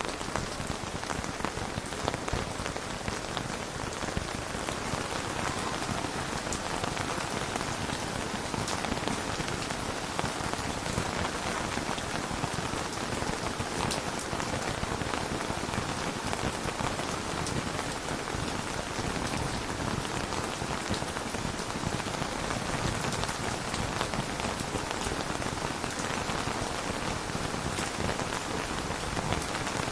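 Steady rain falling: a constant hiss of rain with scattered individual drop ticks, and no thunder.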